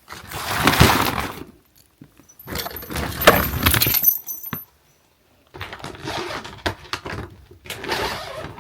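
Rustling and clinking as Christmas decorations are handled and pulled out of storage bags: three bursts of rattling clatter, each cut off abruptly.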